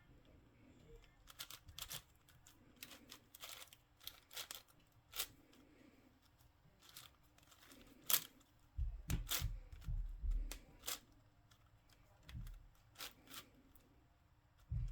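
Plastic speed cube being turned by hand: irregular clicks and short scrapes as its layers are twisted, with a few low knocks from handling about two-thirds of the way through.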